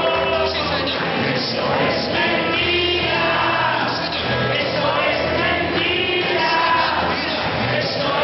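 Congregation and worship band singing a lively praise song, with voices over a steady beat.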